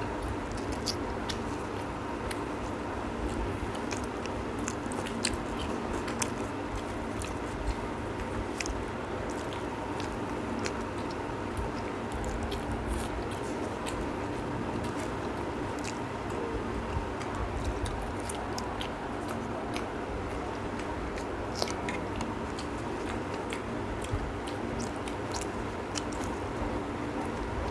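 Close-miked eating: two people chewing roti and egg curry, with many short wet mouth clicks and smacks scattered throughout, over a steady background hum.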